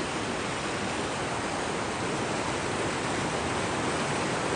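A fast, swollen river rushing: a steady, full roar of whitewater with no breaks.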